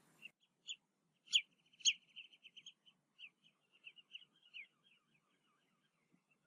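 A bird calling: a few short high chirps, two louder ones about one and a half and two seconds in, then a fast run of quick chattering notes that fades out near five seconds.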